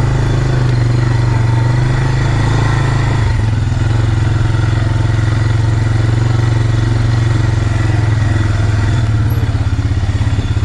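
Quad bike engine, running on a newly fitted carburettor, ticking over steadily at low speed; its pitch eases slightly about three seconds in.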